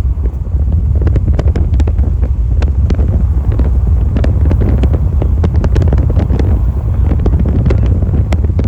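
Strong wind buffeting the microphone, a steady low rumble, with scattered sharp ticks and taps throughout.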